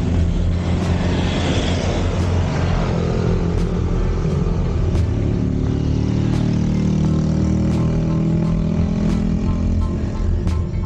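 Wind rumble on the microphone of a camera riding along on a bicycle, with a motor vehicle rushing past in the first few seconds. Later an engine note slowly rises as another vehicle approaches.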